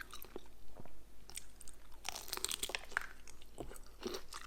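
Someone biting and chewing crispy deep-fried battered food close to the microphone: a series of irregular sharp crunches.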